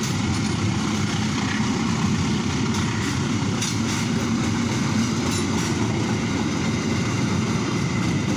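Argo Wilis passenger train running, a steady low rumble with a few faint clicks.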